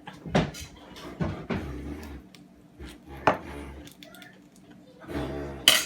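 Scattered knocks and clinks of tableware and shellfish being handled while eating, the sharpest about three and a quarter seconds in and again near the end, with a short voice sound shortly before the end.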